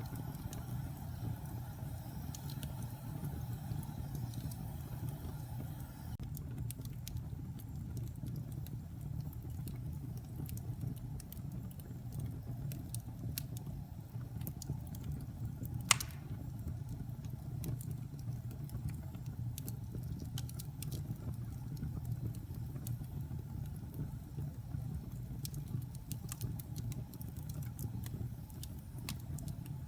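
Wood fire burning in a fireplace: a steady low rumble from the flames with scattered small crackles, and one loud pop about halfway through.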